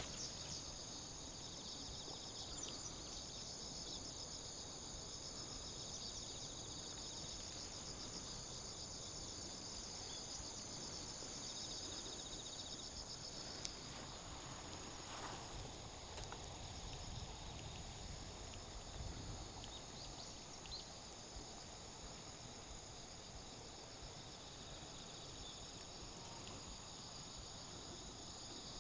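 A steady chorus of insects singing, a dense high-pitched chirring that carries on unbroken, with a few faint clicks.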